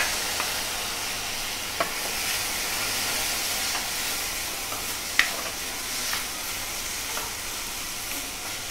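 Chopped tomatoes and onions sizzling in hot oil in a stainless steel kadhai, stirred with a spatula. The spatula knocks sharply against the pan a few times, loudest near the start and about five seconds in.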